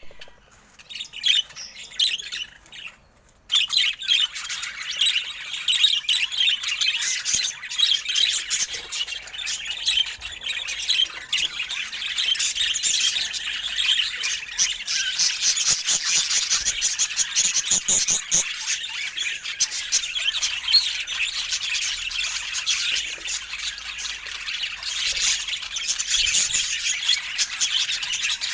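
A flock of budgerigars chattering and squawking together in a dense, continuous warble. It starts sparse and swells into full chatter about three and a half seconds in.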